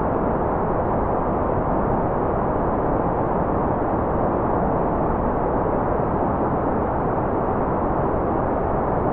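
Steady generated white noise with a constant level and no changes. It is filtered so that it sounds like a dull, muffled rush rather than a bright hiss.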